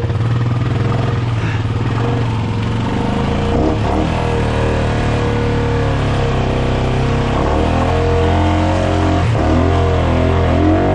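ATV engine running steadily, its revs rising and falling more in the second half.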